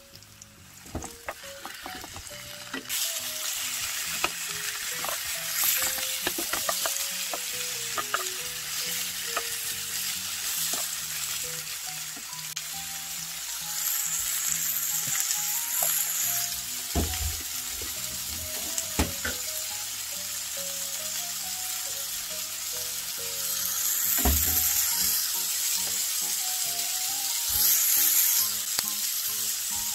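Fish cake and vegetables stir-frying in a nonstick wok: a steady sizzle that rises sharply about three seconds in, with a wooden spatula scraping and knocking against the pan now and then.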